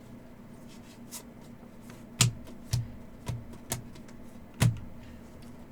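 Trading cards being handled and set down on a table: a handful of sharp taps and flicks, the loudest just past two seconds in and again at about four and a half seconds, over a low steady hum.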